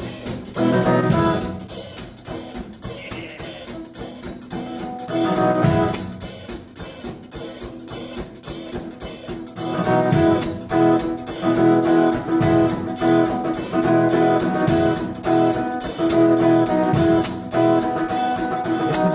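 Live guitar-and-drums duo playing an instrumental intro: guitar chords over a steady drum kit beat.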